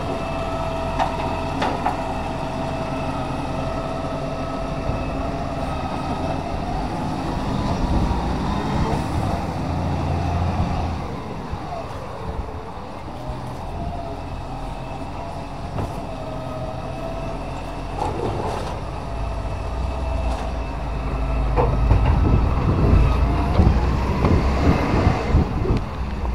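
Side-loader recycling truck running, its engine rising in a low rumble twice, with a steady whine that dips once in pitch, and a few sharp clanks.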